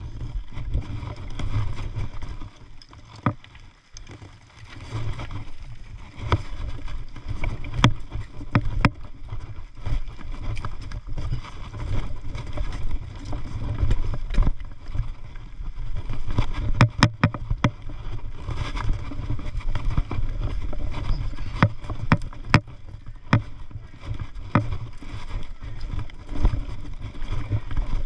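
Riding a mountain bike along a dirt trail: steady wind buffeting on the microphone under frequent sharp rattles and knocks as the bike goes over bumps.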